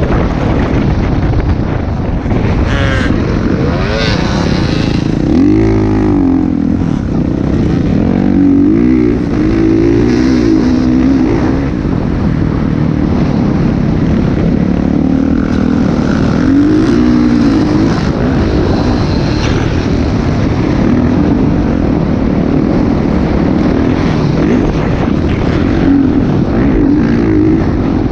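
Motocross dirt bike engine running loud, its pitch rising and falling again and again as the throttle is opened and closed.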